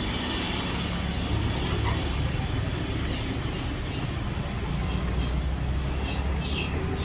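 Thin pry knife scraping at the alcohol-softened battery adhesive inside an iPhone 12 Pro Max in short repeated strokes, a few to the second, over a steady low rumble.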